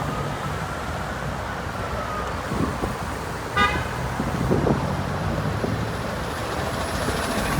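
Street traffic noise, with a brief horn toot about three and a half seconds in.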